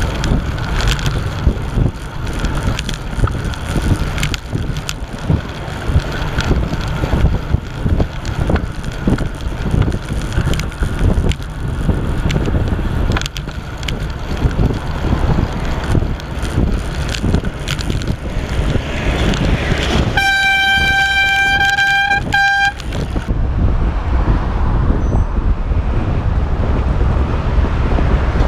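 Wind rumble on a cycling helmet camera. About twenty seconds in, an AirZound bicycle air horn sounds one loud, high-pitched blast of about two seconds, then a short second toot.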